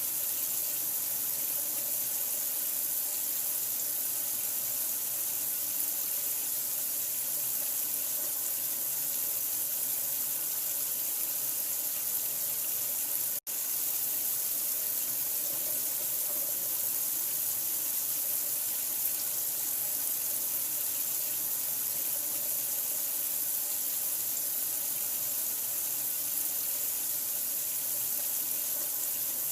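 Water running steadily, an even hiss strongest in the high range, with a split-second dropout about 13 seconds in.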